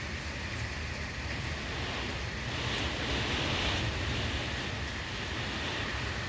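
Hurricane wind, a steady rushing noise with rumble from wind on the microphone, swelling for a moment about halfway through.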